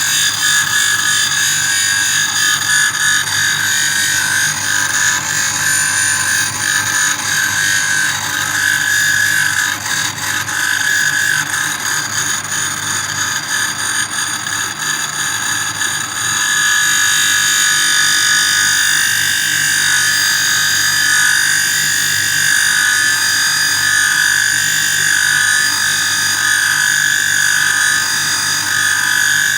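RV-3000 valve refacing machine grinding a valve: a loud, steady, high-pitched whine of the grinding wheel and motors. The sound is rougher and uneven for a while, then turns steadier and louder about sixteen seconds in.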